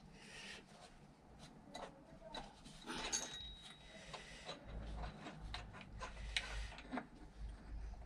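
Scattered light clicks and knocks of the scooter's variator parts being handled and drawn off the crankshaft by hand.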